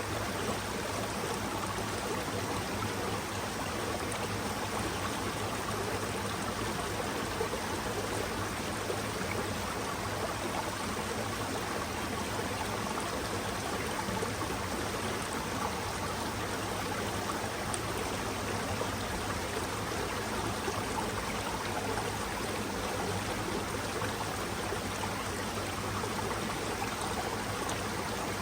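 Forest mountain stream running: a steady, even rush and trickle of flowing water.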